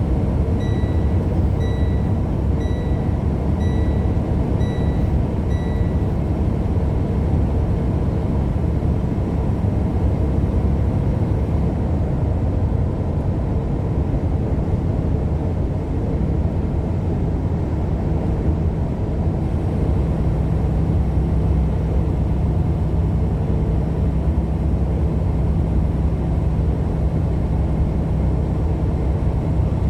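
Steady drone of a vehicle driving, engine and road noise. A short high electronic beep repeats about once a second for the first six seconds.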